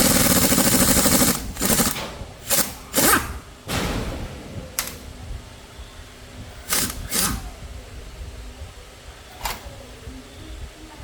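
A power tool rattling in short bursts: one long rapid burst at the start, then several brief ones over the next few seconds, after which only low workshop noise remains.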